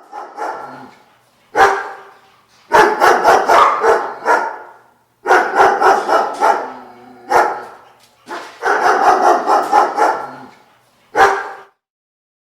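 Dog barking repeatedly. Single barks alternate with quick runs of several barks, with short pauses between the runs, and one last single bark near the end.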